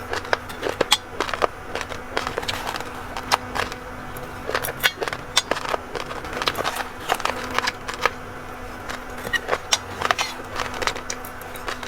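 Raw rice grains crunching between the teeth while being chewed: a fast, irregular run of sharp, crisp crunches over a faint steady hum.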